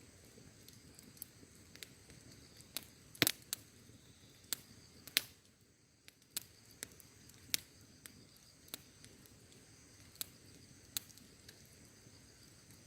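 Wood fire crackling, with scattered sharp pops and snaps at irregular intervals. The two loudest pops come about three and five seconds in, over a faint low hiss of burning.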